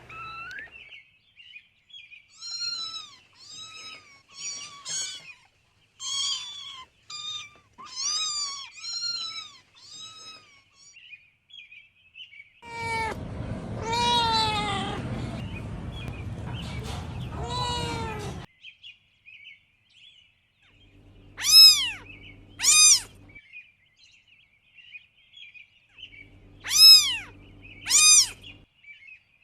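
Cats meowing: a quick series of short, high mews over the first ten seconds, then a few longer meows over a rumbling noise, then two pairs of loud meows near the end.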